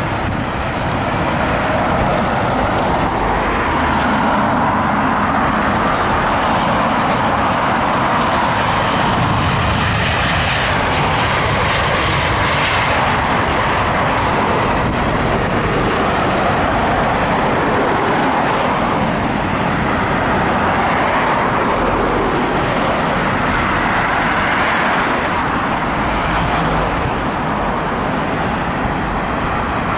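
Loud, steady jet-engine noise from an Airbus A320-232 with its IAE V2500 turbofans as it lands.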